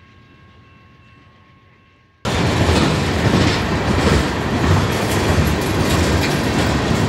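A faint steady tone for about two seconds, then an abrupt cut to a train passing close by: loud, steady rumble and rattle of the wheels running on the rails.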